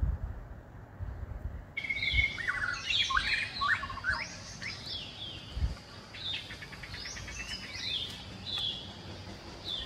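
Several birds chirping, a busy run of short, varied calls and quick pitch glides that starts about two seconds in and keeps on, over a low background rumble with a few dull thumps.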